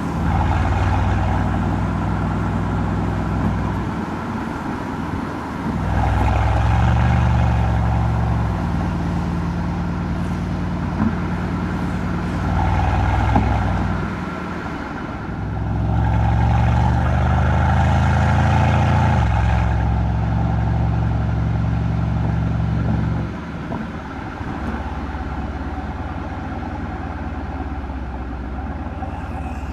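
Mercedes-AMG C63's M177 twin-turbo V8 exhaust while driving: several stretches of acceleration with the pitch climbing, the engine easing off between them, then a steady, quieter cruise for the last few seconds.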